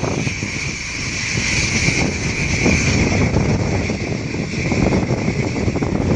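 Wind buffeting the microphone in a steady low rumble, over a continuous high-pitched whine or hiss.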